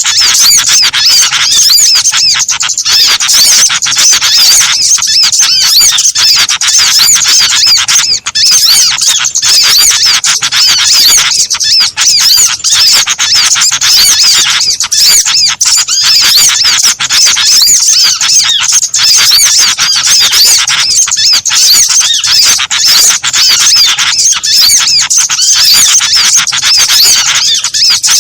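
Bird-lure recording: a dense, unbroken chorus of many small songbirds chirping and twittering at once, with rapid high overlapping calls.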